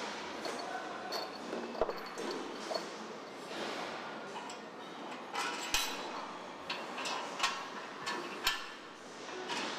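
Factory assembly-line noise: steady background hum with scattered sharp metallic clinks and knocks of tools and parts being handled.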